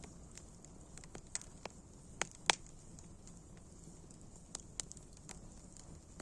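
Wood fire burning: a low steady hiss with irregular sharp crackles and pops, the loudest pop about two and a half seconds in.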